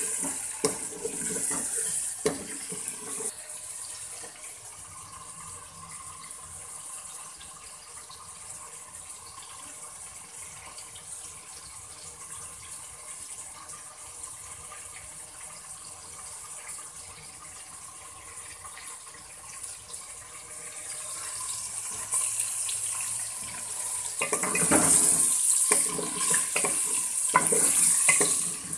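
Chicken pieces sizzling in oil in an aluminium pot as they are browned (bhuna) until their colour changes, a steady hiss. A spoon stirs and scrapes in the pot at the start, and near the end the sizzle grows louder with clattering stirring.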